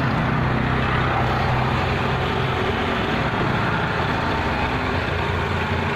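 Car engine idling steadily, heard close up in the open engine bay, running normally after a new battery was fitted.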